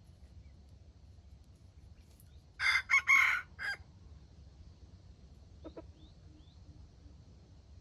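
A rooster crowing once, about two and a half seconds in: a short, broken crow. A few faint small-bird chirps follow a couple of seconds later.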